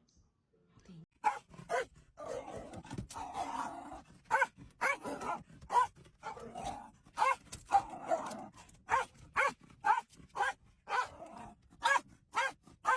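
Dog barking over and over, about two barks a second, with rough growling between the barks in places.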